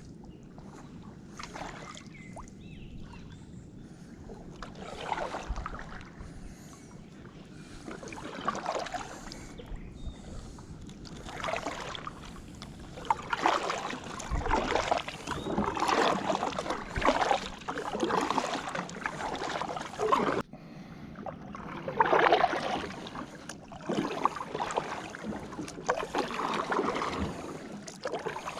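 Kayak paddle strokes splashing and swishing through the water, a second or two apart, louder in the second half, with a brief break about two-thirds of the way through.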